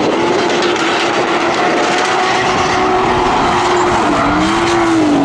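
Drift cars running on track, the engine note rising and falling as the drivers work the throttle through the corners.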